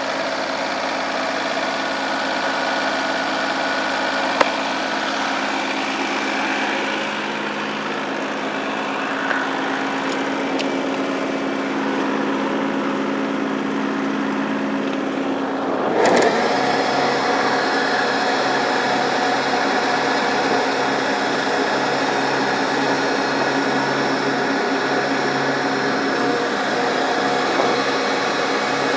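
Massey Ferguson tractor engine running steadily. About halfway through, its note changes abruptly and it runs on steadily at a different engine speed.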